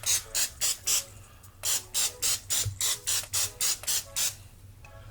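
Cooking oil spray being sprayed onto the plates of a hot waffle maker in quick short hisses, about four a second, with a brief pause about a second in and stopping a little after four seconds.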